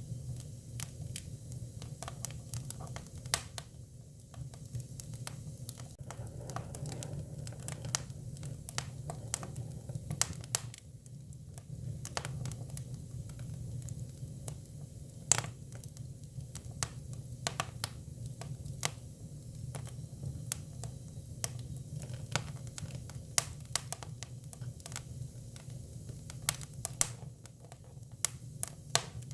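Hinoki cypress firewood crackling as it burns: frequent, irregular sharp pops over a steady low rumble.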